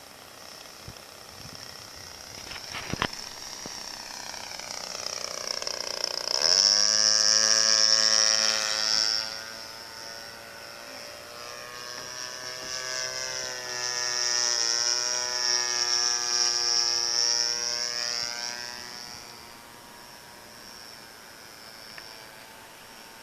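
Model aircraft's 20cc VVRC two-stroke gas engine, flying: a buzzing engine note that swells and bends in pitch as the plane passes, twice, loudest from about six to nine seconds in and again from about twelve to nineteen seconds in.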